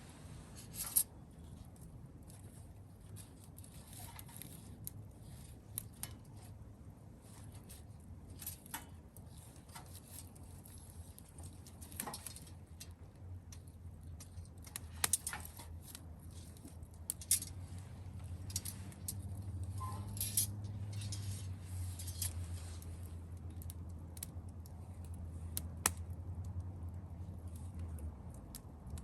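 Wood campfire crackling with irregular sharp pops and snaps. A low steady hum runs underneath, growing louder in the second half and stopping near the end.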